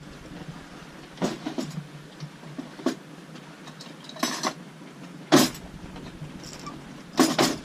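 A run of sharp knocks and clatters of hard objects, several in quick pairs, spread irregularly over a low steady background; the loudest comes a little past the middle.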